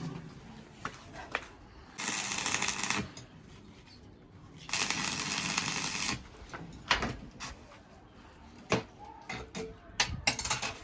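Two short bursts of stick-welding arc crackle, each about a second long: tack welds joining the steel plates. Between and after them come scattered sharp metal clicks and knocks.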